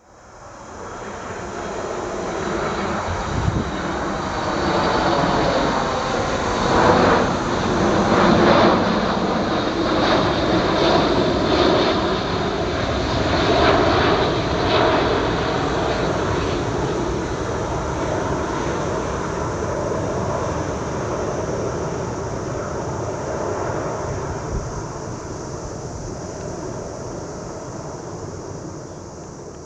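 Boeing 737-800 airliner passing with its CFM56 jet engines running. The jet noise builds over the first few seconds, is loudest about a quarter of the way in, and slowly fades away near the end.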